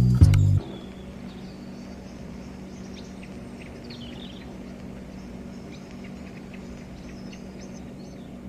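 Background music cuts off about half a second in, leaving a faint low hum with scattered small birds chirping.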